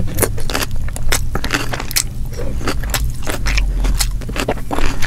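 Close-miked mouth sounds of someone chewing a mouthful of fried fish and rice: wet, sticky smacks and clicks, several a second, coming at uneven intervals.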